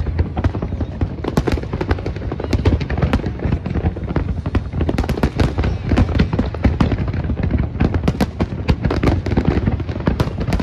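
Fireworks display going off continuously: many sharp bangs and crackles a second over a steady low rumble.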